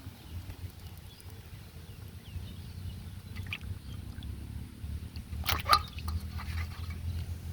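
Water splashing and dripping, with one sharp splash about five and a half seconds in, over a steady low rumble.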